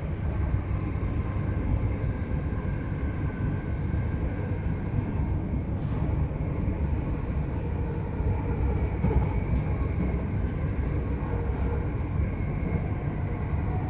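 c2c electric passenger train running at speed, a steady low rumble of wheels on track, with a few faint clicks.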